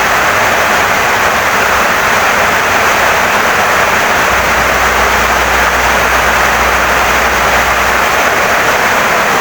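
Heavy rain pouring steadily on a wooden house, an even, unbroken hiss of drops. A low rumble sits underneath from about four to eight seconds in.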